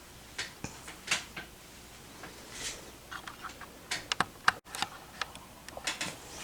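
Scattered light clicks and taps, irregular and spaced apart, from hands handling the plastic casing and controls of a sewing machine.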